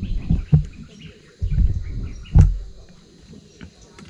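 Birds chirping faintly outdoors over low rumbling thumps and a few sharp knocks, the loudest knock about two and a half seconds in, after which it goes quieter.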